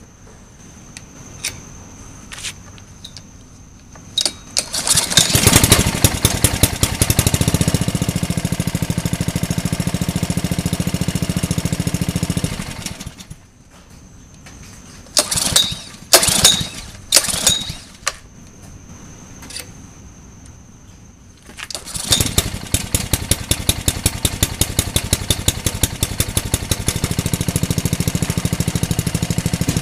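Honda 5 hp OHV small engine on a pressure washer, cold-starting after sitting about a year. It catches about five seconds in and runs for roughly eight seconds, then cuts out. A few short bursts follow as it fires briefly, and it starts again about three-quarters of the way through and runs with an even beat.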